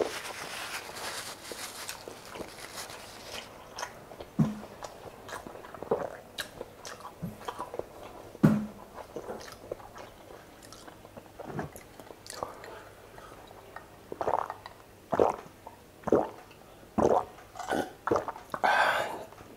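A person chewing and biting mouthfuls of chicken adobo with rice, with wet mouth sounds and scattered small clicks. The short, sharper sounds come more often and louder in the last few seconds.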